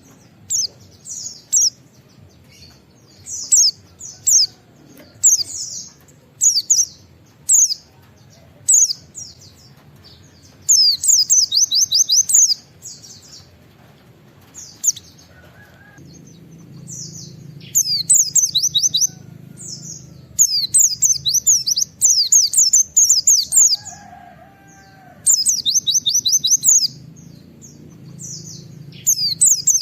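A white-eye (pleci) singing. Single high chirps come about once a second, then from about ten seconds in it breaks into bursts of rapid, repeated 'wit wit' notes.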